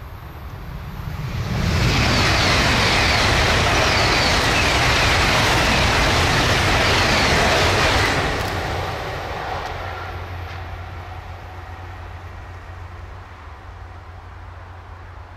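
Deutsche Bahn ICE high-speed train passing at speed: a rush of wheels on rail and air noise that swells in over the first two seconds, stays loud for about six seconds while the train goes by, then drops off and fades to a low rumble.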